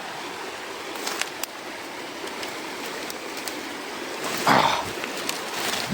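Jungle river water rushing over rocks, a steady noise throughout. A few light clicks come about a second in, and a brief louder sound about four and a half seconds in.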